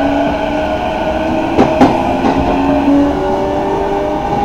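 Electric commuter train running, heard from inside the carriage, its motor whine climbing slowly in pitch as the train picks up speed. Two sharp clacks of the wheels over rail joints come about a second and a half in.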